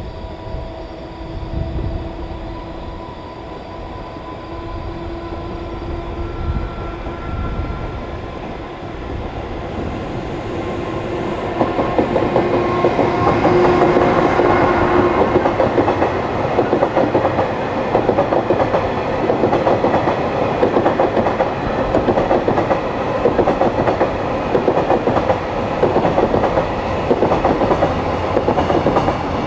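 JR container freight train approaching, a rumble that builds for about ten seconds with a few faint steady tones. About twelve seconds in it gets much louder as the container wagons roll past, with a steady clickety-clack of wheels over rail joints.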